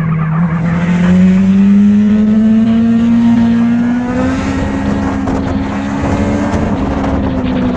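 Motorcycle engine running under way, its note climbing gradually as it speeds up and then holding steady, over a rushing noise.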